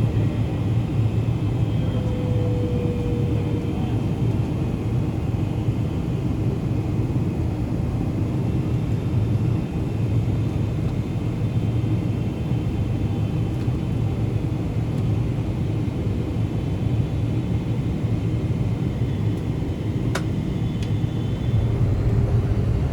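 Steady cabin noise inside a Boeing 777-300ER in flight on its approach: an even, constant low rumble from its twin GE90 engines and the airflow past the fuselage.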